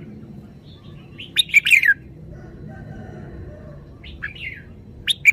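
Red-whiskered bulbul singing: loud short phrases of a few quick whistled notes that fall in pitch, one about a second in and two more near the end, over a steady low background noise.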